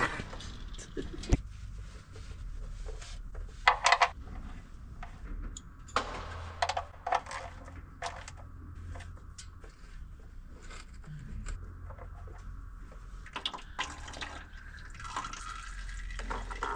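Motor oil pouring and splashing during a truck oil change, with scattered clanks and knocks of tools and parts.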